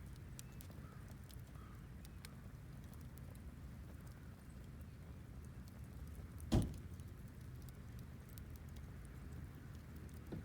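Wood fire burning, with scattered small crackles and a louder sharp crack about six and a half seconds in, over a low steady rumble.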